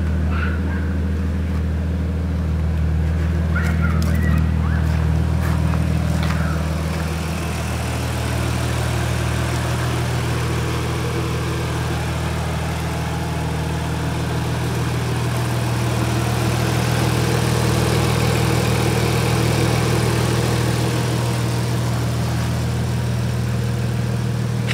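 Audi B5 S4's twin-turbo V6 idling steadily through a straight-piped true dual exhaust with no catalytic converters or mufflers, only two resonators. The idle note steps a little higher about seven seconds in, then holds steady.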